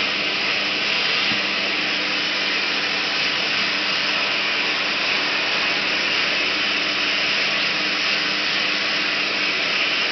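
Vacuum cleaner running steadily: a constant rush of air over a low, even motor hum.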